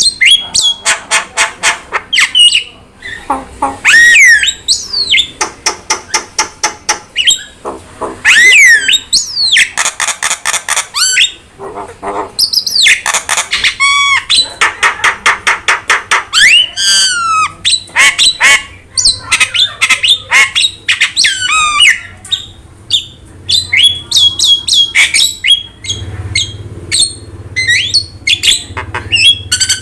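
Jalak starling song: dense runs of rapid harsh chattering and squawks broken up by rising and falling whistles.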